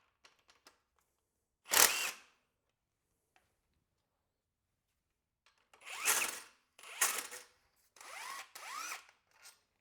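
Cordless power tool run in short bursts, its motor pitch rising and falling, while taking fasteners off the engine's belt-drive accessories. One burst comes about two seconds in, then four or five quick bursts in the last four seconds.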